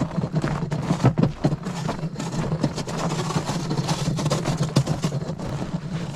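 An engine running steadily at a constant pitch, with scattered clicks and knocks over it.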